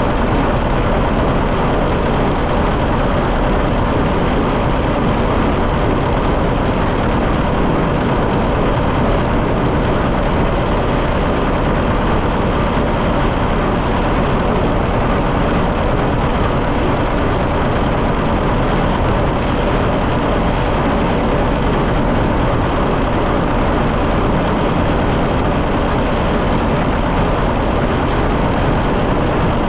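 John Deere 730 two-cylinder tractor engine running steadily under way on the road, a dense, even pulsing with no change in speed.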